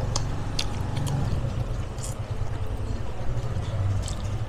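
A steady low rumble runs under a few short, sharp smacks and clicks of people chewing while eating with their hands.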